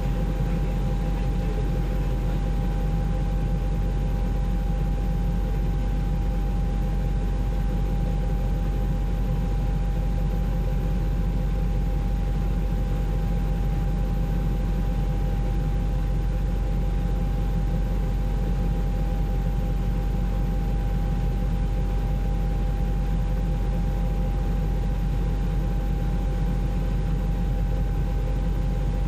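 Steady drone of a helicopter heard from on board, engine and rotor noise with a constant whine over it and no change in pitch or level.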